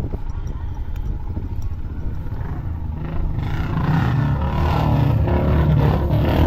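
Motorcycle engine running, growing louder about three seconds in as the bike speeds up, with a rushing noise rising along with it.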